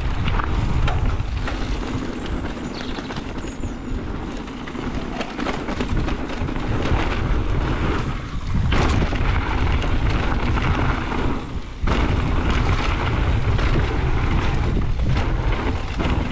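Strong wind buffeting the microphone: a heavy, rough low rumble that eases briefly twice, about eight and twelve seconds in.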